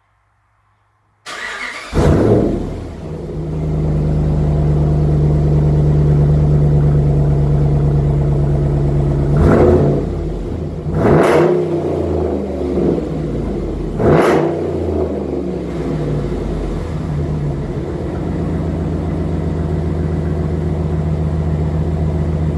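2012 Ram 1500's 5.7 L Hemi V8 through a muffler-deleted exhaust, started about a second in: a brief crank, then it catches with a flare of revs. It settles to a steady idle, is blipped three quick times in the middle, and goes back to idle.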